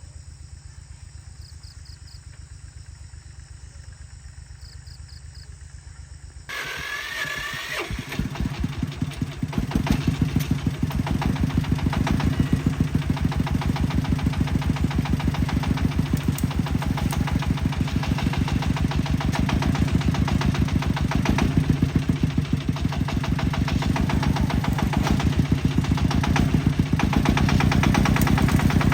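Tractor engine starting about six seconds in, with a brief rising whine, then running with a steady, even pulse that grows louder over the next few seconds and holds. Before the start, a faint pulsing engine sound and high insect chirps.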